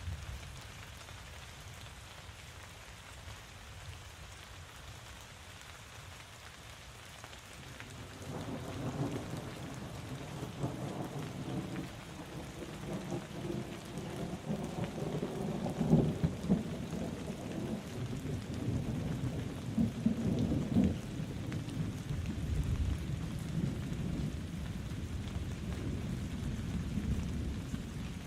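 Steady rain falling, with a long roll of thunder that starts about eight seconds in, swells to its loudest near the middle and keeps rumbling afterwards.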